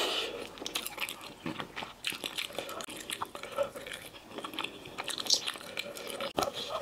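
Close-miked chewing and biting of a meat-filled ball, a run of small irregular clicks and crackles from the mouth.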